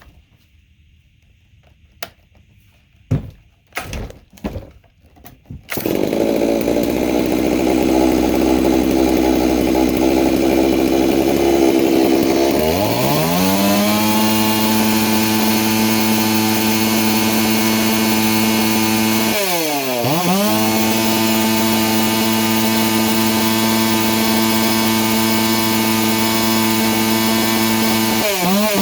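Holzforma G660 two-stroke chainsaw with an Egan straight-shot performance muffler starting about six seconds in after a few short knocks. It idles briefly, then revs up and is held at full throttle, dropping off and coming back once midway and again near the end. This is the first run on the new muffler with the carb not yet retuned, and it reaches about 13,500 rpm at full throttle.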